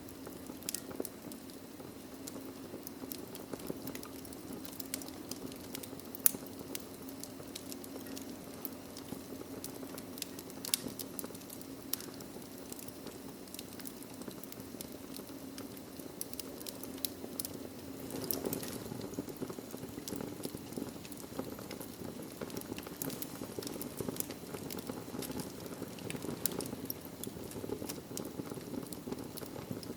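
Wood fire crackling in a fireplace: a steady hiss with frequent sharp pops, one louder pop about six seconds in and a brief swell of hissing about eighteen seconds in.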